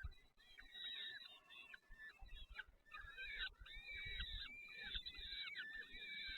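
Nestling birds calling in the nest, a dense, continuous chorus of rapid, overlapping high chirps, typical of chicks begging for food.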